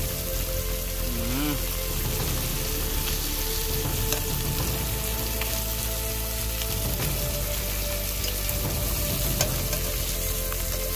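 Fish fillets and garlic sizzling steadily in butter in a metal pot, with a few light clicks from a fork moving the pieces around the pan.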